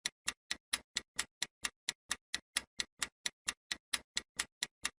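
Clock-style ticking sound effect, about four to five even ticks a second, counting down the time to answer a quiz question.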